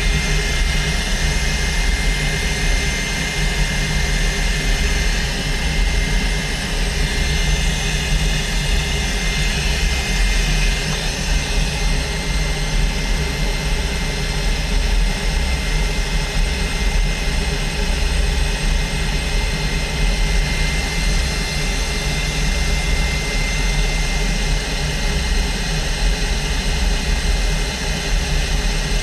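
Aero L-29 Delfín's Motorlet M-701 turbojet engine running steadily on a ground run: a constant high turbine whine over loud, even rushing noise.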